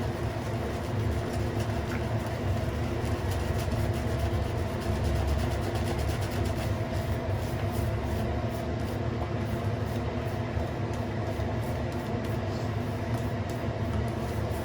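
Shaving brush with a synthetic knot being worked against shaving soap to build a lather, a continuous fast swishing and rubbing, over a steady low hum.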